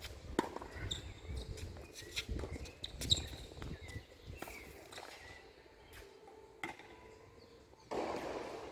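Scattered footsteps on a tennis court, with a few sharp knocks, the loudest about three seconds in, and a short burst of noise near the end.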